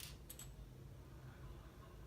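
Near silence with a low hum, and a few faint clicks of plastic LEGO pieces being handled early on.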